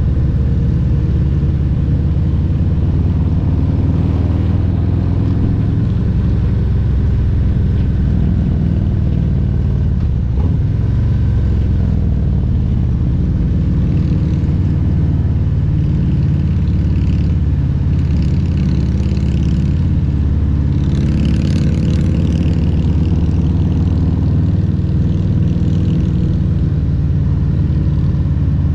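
Harley-Davidson Milwaukee-Eight 114 V-twin engine of a Road Glide Special running under way, its note rising and falling with throttle. About three-quarters of the way through there is a brief rush of higher hiss.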